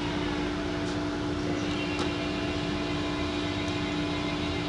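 Band saw blade protection-strip applicator running steadily while it fits the plastic guard onto the blade teeth. It makes a constant hum with a couple of faint ticks about one and two seconds in.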